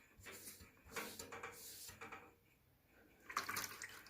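Faint, irregular water splashing and wet handling noises, with a quieter stretch in the middle and a short click near the end.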